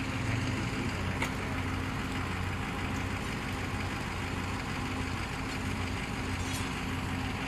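Fire engine idling steadily, a low even hum with a faint click about a second in.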